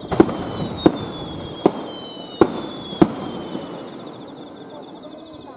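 Fireworks bursting in the sky: five sharp bangs in the first three seconds, about one every 0.6 to 0.8 s, then no more bangs.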